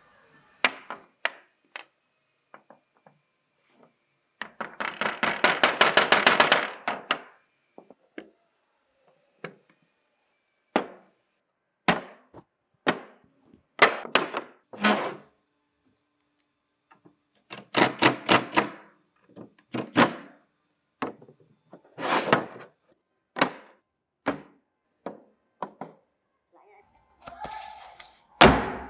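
Sharp knocks and thuds of hand-tool work: single and paired strikes, with two quick runs of about ten blows a second, one a few seconds in and another past the middle.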